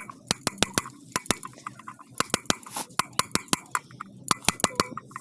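Sharp metallic tapping and clinking of metal on metal during motorcycle sprocket hub and bearing work, an irregular run of several taps a second with short pauses.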